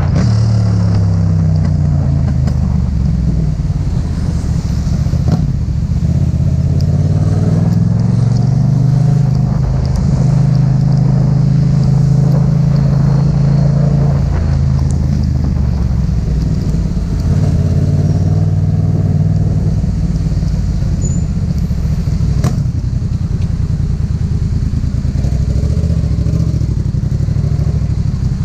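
Yamaha MT-07's parallel-twin engine under way on the road: its pitch falls as it slows at the start, climbs again as it accelerates, holds steady for a few seconds, then drops back. A single sharp click about two-thirds of the way through.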